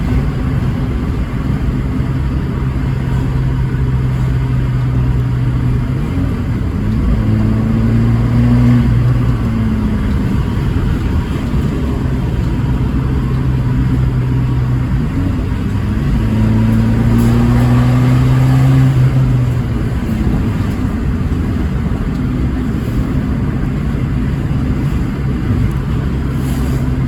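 Abarth 500C esseesse's 1.4-litre turbocharged four-cylinder engine, through its Record Monza exhaust, running with a steady note and revving up twice, each time rising in pitch and loudness before dropping back.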